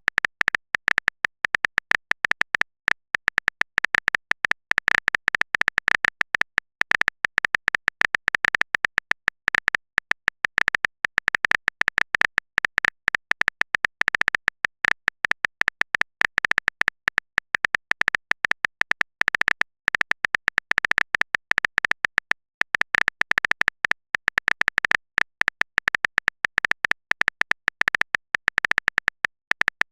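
Rapid, irregular clicking that runs on without a break: a keyboard typing sound effect of the kind laid under text-chat videos, with a high, bright edge to each click.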